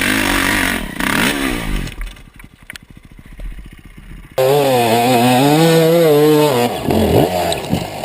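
Dirt bike engine revving hard, its pitch wobbling up and down, in two loud stretches; the second cuts in suddenly about four and a half seconds in, and the revs drop away near the end.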